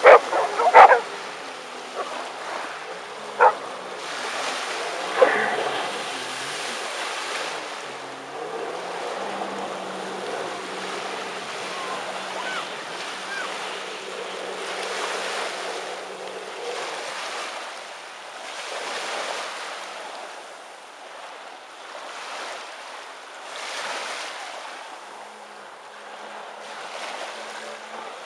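Sea water and wind rushing in swells every few seconds, with a faint steady engine hum. Three short, sharp loud sounds come in the first six seconds.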